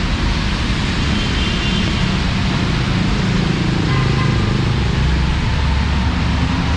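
Heavy monsoon rain hissing steadily, with the low rumble of passing road traffic underneath.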